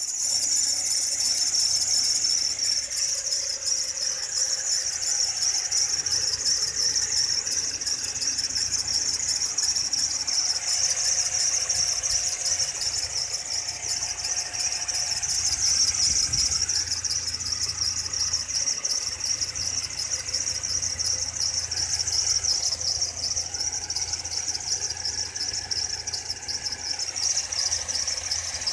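Toyota Fortuner engine running with a continuous high-pitched squeal that flutters rapidly, over a low engine hum. The uploader puts the squeal down to the drive belts or a loose belt tensioner.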